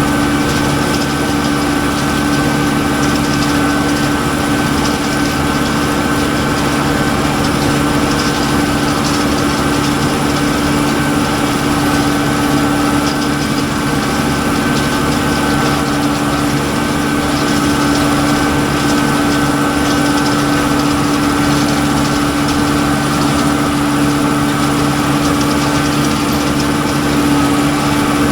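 Tractor engine running at a steady speed, pulling a poultry litter cruster: a constant drone with a steady whine over it and no change in pitch.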